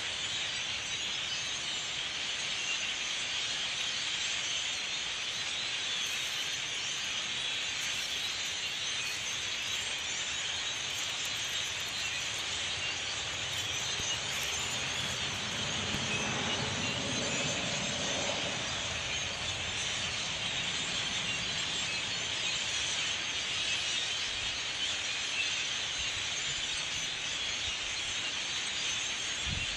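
A huge flock of blackbirds calling all at once: a dense, steady din of squeaks and chatter. A low rumble swells and fades about halfway through.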